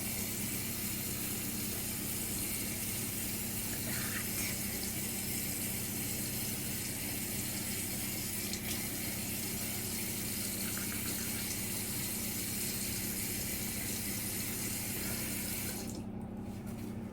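Water running steadily from a tap as a fresh tattoo is rinsed under it; the flow dies away about a second before the end.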